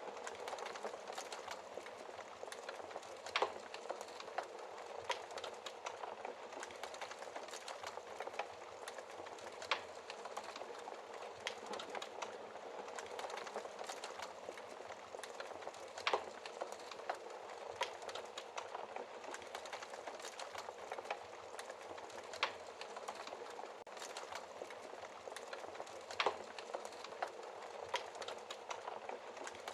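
Wood fire crackling in a fireplace: a steady bed of fine crackle and hiss with scattered sharper pops, a handful standing out louder than the rest.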